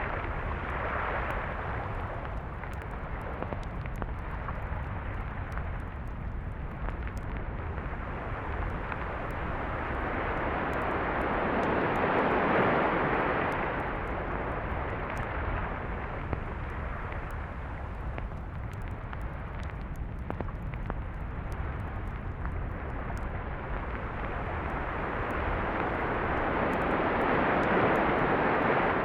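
Surf on a beach at night: a constant low rumble of the sea with waves breaking and washing up, swelling twice, about midway and again near the end, then easing back.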